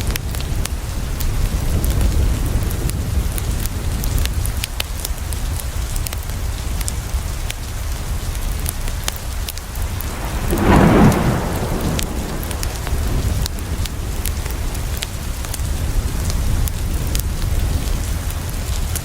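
Steady rain pattering on a window with a low rumble underneath, and a wood fire crackling in sharp little clicks throughout. A brief louder swell rises and fades about halfway through.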